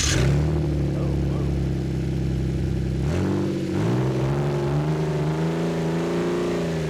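Ford Flex 3.5-litre twin-turbo EcoBoost V6 running with an open exhaust just after starting, a deep, gnarly drone. About three seconds in its pitch dips, then rises gently and eases back near the end.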